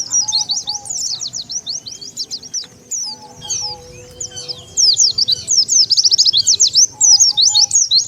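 White-eyes (pleci) calling in a fast, dense chatter of high chirps, with a quick trill of notes about five seconds in: a pleci lure call for drawing wild white-eyes.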